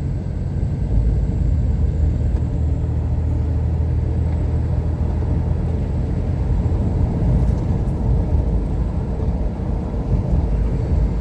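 Steady in-cabin rumble of a car driving: engine drone and tyre noise on a broken, patched asphalt road.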